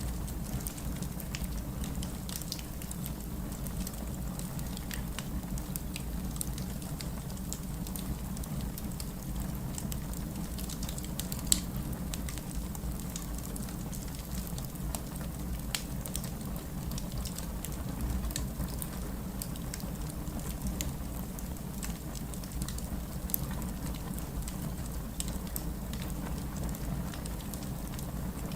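Wood fire crackling in a fireplace, with scattered small pops and one sharper pop about eleven seconds in, over the steady sound of distant city rain.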